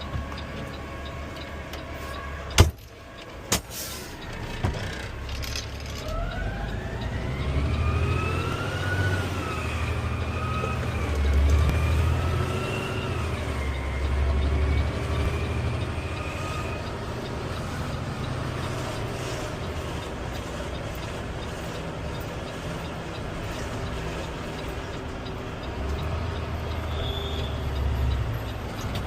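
Cab sound of a Peterbilt 520 CNG automated side-loader garbage truck: the engine runs with a low rumble, two sharp clanks come a few seconds in, then a mechanical whine rises and wavers in pitch for about ten seconds.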